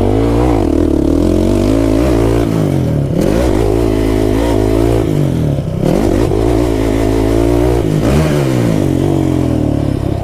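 Kawasaki KFX 450R quad's single-cylinder four-stroke engine being ridden hard: revs climb and fall again and again as the throttle is opened and chopped, with sharp drops about three times.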